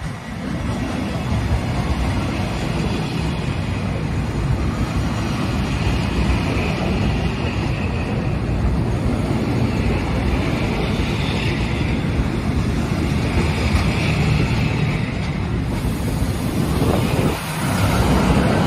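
Passenger train of vintage railway coaches rolling past close by: a steady rumble of steel wheels on the rails, with a brief dip near the end.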